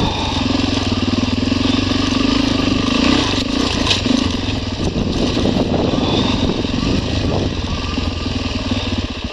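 Dirt motorcycle engine running under load while climbing a steep, rutted rocky trail. Its note holds steady for about the first five seconds, then turns uneven and changing, and right at the end it drops to a slow idle.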